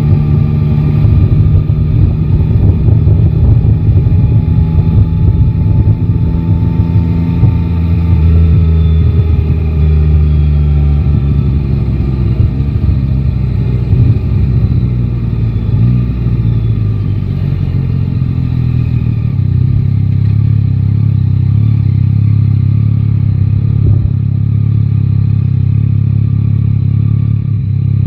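Yamaha Tracer 9 GT's 890 cc inline-three engine running through city traffic, its pitch easing down about a third of the way in, then running steadily at low revs for the second half.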